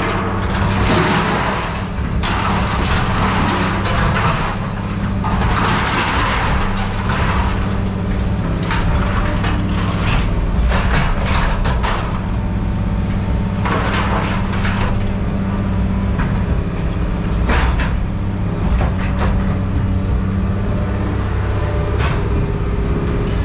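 A machine running steadily with a constant low hum, while scrap metal is handled with irregular clattering and sharp knocks.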